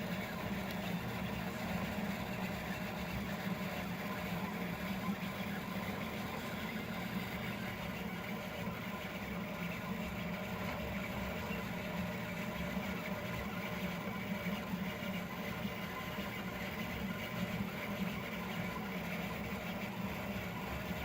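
A 3D printer printing at high speed: its stepper motors whine in a cluster of shifting tones over a steady hum from its fans, with no break.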